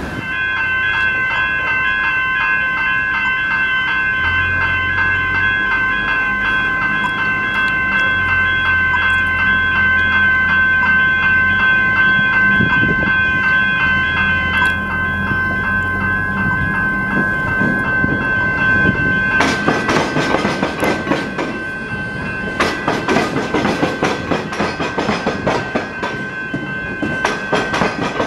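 Level crossing warning bells ringing steadily. About twenty seconds in, a train's wheels start clattering in quick, repeated clacks over the crossing where the tram tracks cut across the railway, while the bells keep ringing more faintly.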